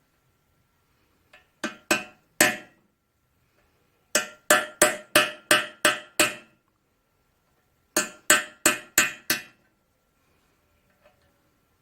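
Hammer blows on a cape chisel, cutting out a broken-off brass pipe thread seized in the drain port of a McCormick Deering Type M engine's water hopper. Sharp, ringing metal strikes come in three quick runs of three, seven and five, about three a second.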